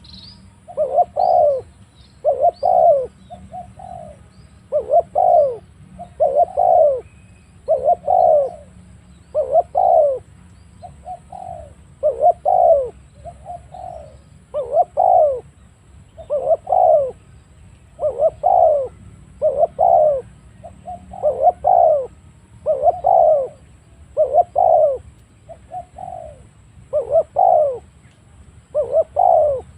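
Spotted dove cooing over and over, a coo about every second and a half, a few of them shorter and softer. Faint high chirps from a small bird near the start.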